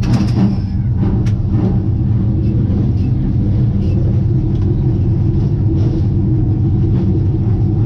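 Super late model race car's V8 engine idling steadily, heard from inside the car, with a few light clicks in the first second or so.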